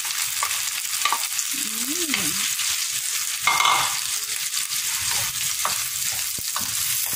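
Raw shrimp frying in butter with garlic and onion: a steady sizzle. A wooden spatula stirring them knocks and scrapes against the pan now and then, loudest about three and a half seconds in.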